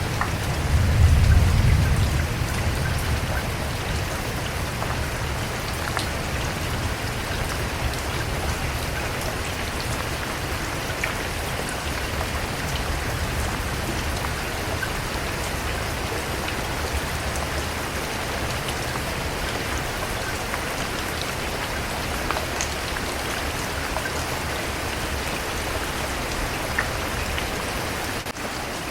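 Steady rain falling, an even patter of drops. A low rumble of thunder swells and fades in the first couple of seconds, the loudest moment.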